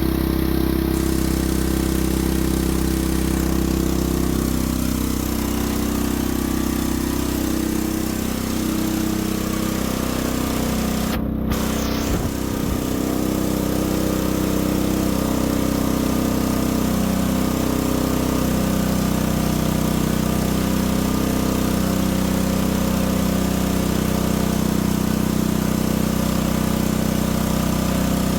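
A small engine running steadily at an even speed, with a brief break about eleven seconds in.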